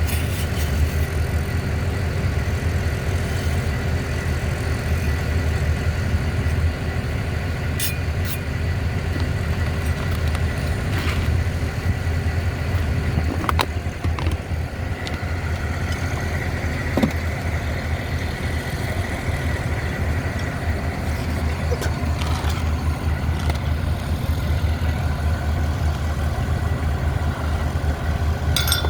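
An engine running steadily at a low idle, with a few short clicks and knocks.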